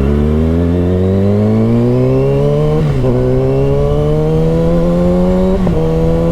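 Motorcycle engine accelerating hard. Its pitch climbs steadily, with an upshift about three seconds in and another near the end, each briefly dropping the pitch.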